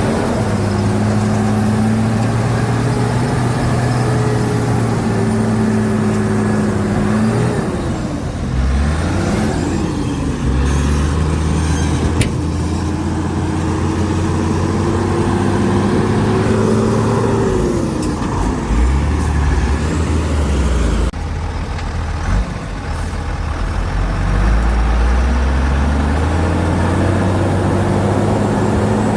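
Diesel engine of a Shantui DH17 bulldozer running hard under load, its pitch sagging and climbing again several times as the load changes.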